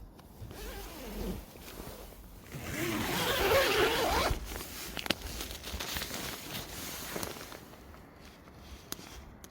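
A zipper pulled in one long stroke about three seconds in, with softer rustling around it and a few small clicks afterwards.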